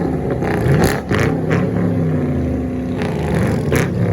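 Muffler-deleted V8 muscle car exhaust being revved in several quick throttle blips, each rising and falling in pitch, with the engine idling steadily between them.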